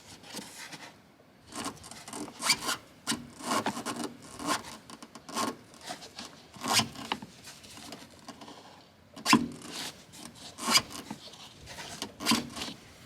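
Irregular scraping and rubbing strokes on a car's suspension parts, with a few sharper knocks among them, as the suspension and its rubber bushings are being checked for wear.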